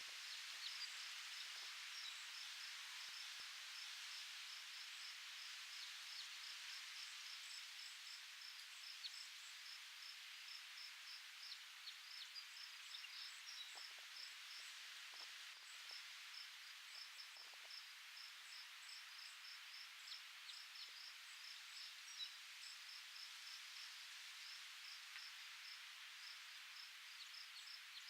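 Faint outdoor ambience: a steady hiss of wind with crickets chirping in quick, even pulses.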